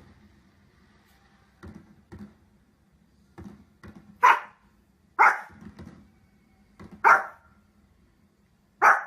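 A dog barking: four loud single barks spaced one to two seconds apart in the second half, after a few faint short sounds.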